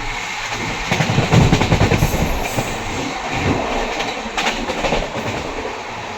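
Poorva Express passenger train running, its wheels clattering over the rail joints, with a louder burst of rumbling and clanking about a second in.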